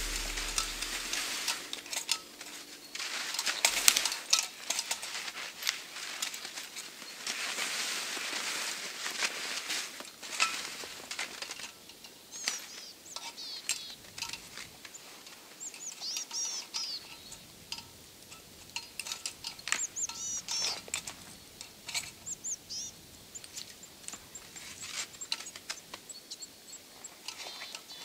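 Small birds chirping and trilling in short high calls, mostly from about twelve seconds in, over scattered clicks and crunches; the first dozen seconds hold a denser rustle.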